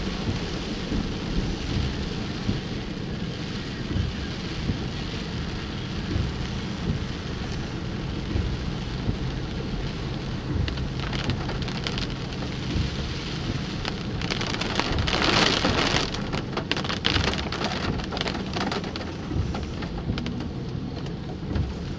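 Steady heavy rain falling on a car, heard from inside the cabin, with a low rumble underneath. A louder surge of hiss comes about fifteen seconds in.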